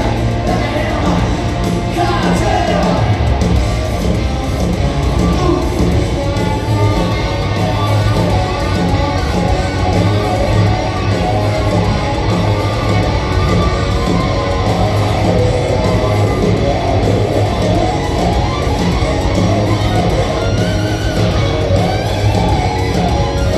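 Hard rock band playing live in a large arena: loud electric guitars, bass and drums with a singer's voice, echoing in the hall.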